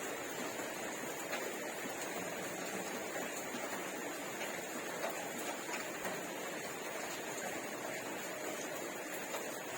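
Steady background hiss with a few faint, scattered clicks and smacks of someone eating rice and pumpkin curry by hand.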